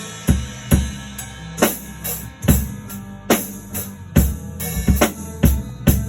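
Music led by a drum kit: kick and snare hits on a steady beat over a low bass line.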